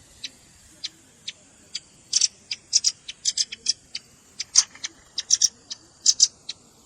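Velvet-fronted nuthatch calling: short, high, sharp chips, single or in quick pairs and small clusters, coming irregularly.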